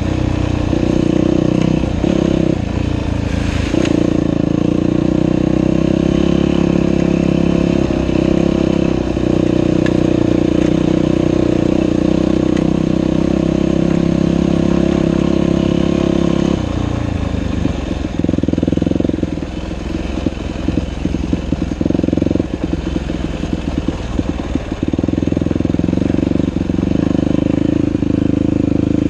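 Dirt bike engine running steadily under throttle. A little over halfway through, the engine note turns choppy for several seconds as the throttle opens and closes repeatedly, then it runs steadily again near the end.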